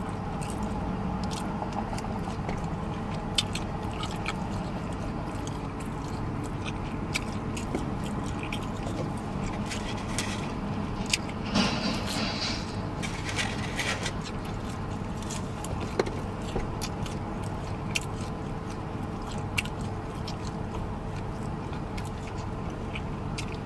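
Close-up chewing of smoked sausage and other food, with many short wet mouth clicks and smacks, over a steady low hum.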